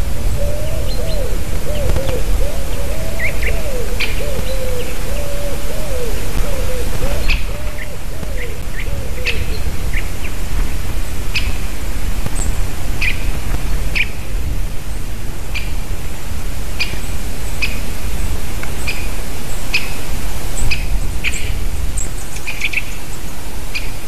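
Small birds calling with short, sharp chirps, roughly one a second, some higher and thinner near the end, over a steady low rumble. A faint wavering tone runs under the calls for the first nine seconds or so.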